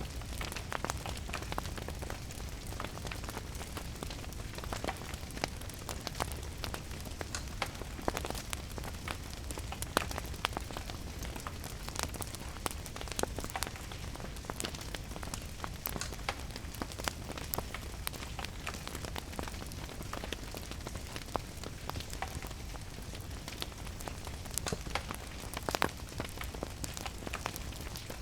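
Wood fire crackling, with frequent sharp irregular pops, over steady falling rain and a low rumble.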